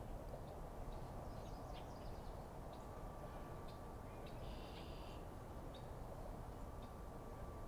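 Short, high bird chirps scattered over a steady low background rumble with a faint constant hum, with one longer buzzy call about halfway through.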